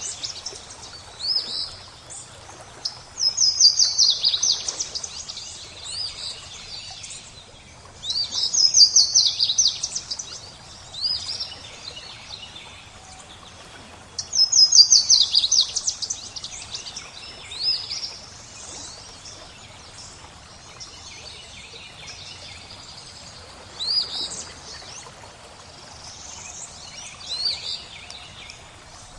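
Songbird singing: a rapid trill of high notes, repeated three times about five or six seconds apart, then only short single calls. Under it runs a faint, steady background of flowing water.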